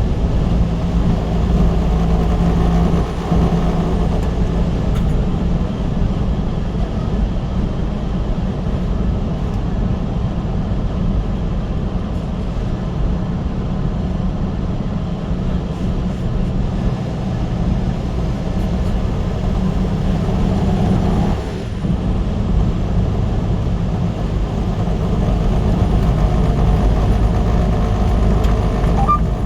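Motor vehicle driving at speed: steady engine and road noise, mostly low-pitched, with a faint engine hum that shifts slightly in pitch.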